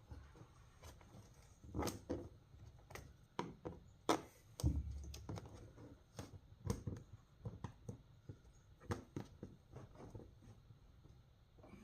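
Hands working a seat-belt connector through a tight hole in vinyl floor covering: irregular small knocks, taps and rubbing scrapes, one to three a second.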